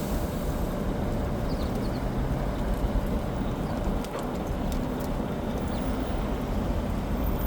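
Steady low city traffic rumble, with a few faint clicks.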